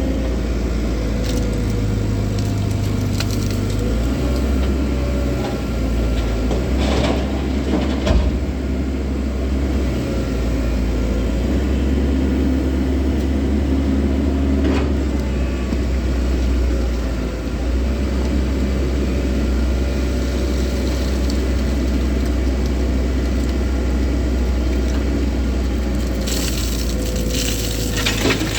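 Komatsu 130 excavator's diesel engine running steadily under load while loading a truck, with scattered knocks and clatter of rock and soil from the bucket. A cluster of crashes comes near the end.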